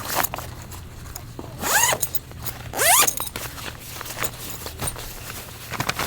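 A zipper pulled twice in quick strokes, each under half a second and rising in pitch, the second a second after the first.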